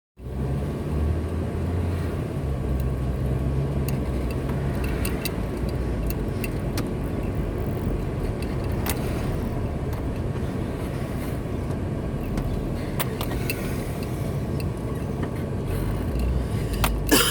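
Car driving: a steady low engine hum and road noise, with a few faint clicks and a sharp knock near the end.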